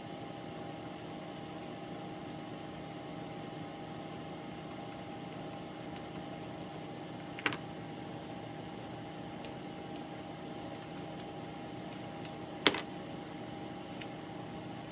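A small electric fan running with a steady hum. Two sharp clicks come through it, one about seven and a half seconds in and a louder one near thirteen seconds, with faint light ticking in the first few seconds.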